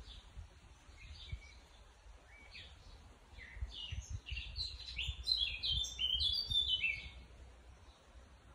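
Bird chirping in a tree: short, high notes, scattered at first, then a quick, louder run of chirps from about four to seven seconds in, with a low rumble of wind or handling on the microphone.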